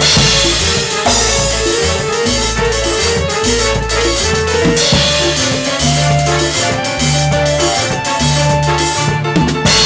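Live band playing an instrumental break in a Latin song: a drum kit and a steady bass line under a melody, opening with a cymbal crash.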